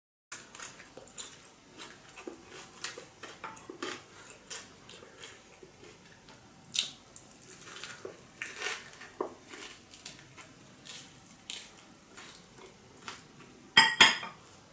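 Close-miked eating: chewing and biting into a soft rice-paper spring roll and fresh herb leaves, a steady string of short wet clicks and crackles. A brief louder clatter comes near the end.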